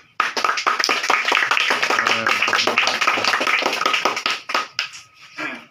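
A group of people clapping together, starting suddenly and going for about four seconds before thinning out into a few last claps near the end.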